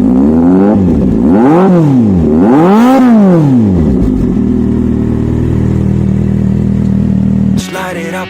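Kawasaki Z800 inline-four motorcycle engine revved three times in quick succession, each blip rising and falling in pitch and the third the longest, then settling to a steady idle. It cuts off suddenly near the end.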